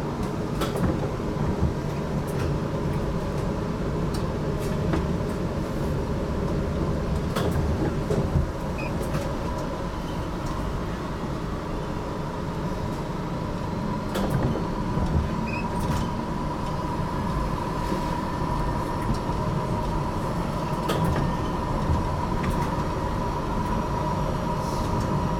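HTM GTL8 articulated tram running between stops, heard from on board: a steady rolling rumble of wheels on rails with a steady whine. The whine grows stronger in the second half, and there are scattered sharp clicks and knocks.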